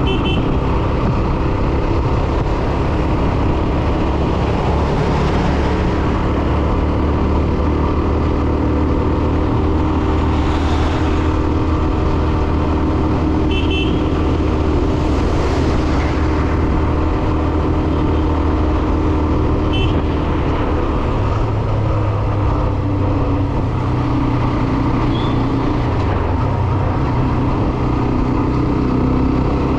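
Hero Xtreme 125R's single-cylinder engine running steadily under riding, with road and wind noise; its note steps up a little about two-thirds of the way through. A few very short high beeps come through on top.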